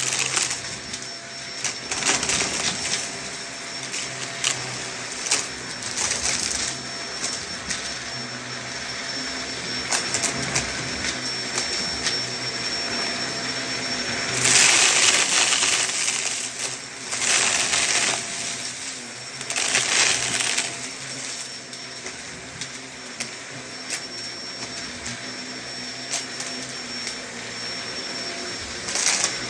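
Vacuum cleaner running steadily with a thin high whine, broken by repeated bursts of crunching and rattling as chunky debris is sucked up off a rug. The loudest burst comes about halfway through.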